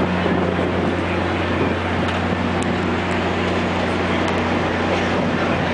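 BNSF diesel locomotive's engine idling: a steady low drone that holds one pitch.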